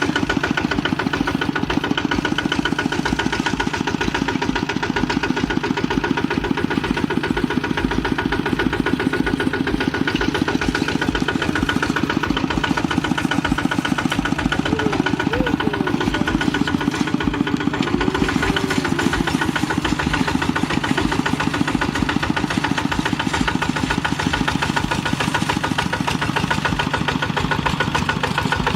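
Kubota RT walking tractor's single-cylinder diesel engine running steadily with a rapid, even beat.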